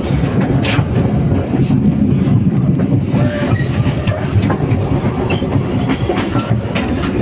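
Local passenger train running along the track, a steady low rumble of wheels on rail with scattered clicks.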